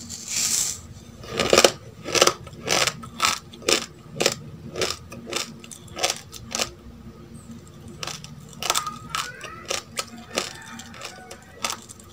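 Close-miked chewing of a mouthful of uncooked rice: hard, clicky crunches about twice a second.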